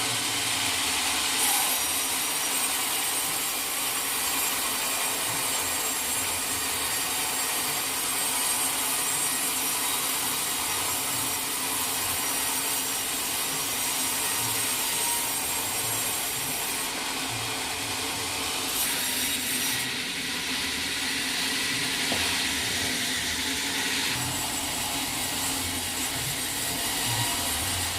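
Sawmill saw cutting through a log: a continuous, steady hiss of the blade in the wood, its high end shifting a few times as the cut goes on.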